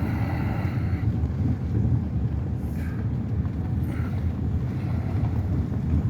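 Truck driving along a road, heard from inside the cab: a steady low rumble of engine and tyres.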